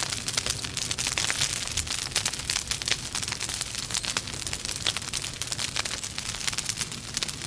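Wood logs burning in a fireplace, crackling in a dense, irregular stream of small snaps and pops over a low steady rumble.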